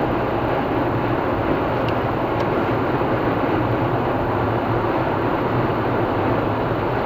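Car driving at speed on a highway: a steady, unbroken noise of tyres and engine with a low hum.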